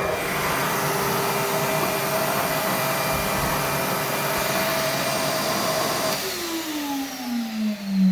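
Allegro Champion MUA50 central vacuum running with a steady rush of air and motor whine, then switched off about six seconds in, its motor spinning down with a falling whine.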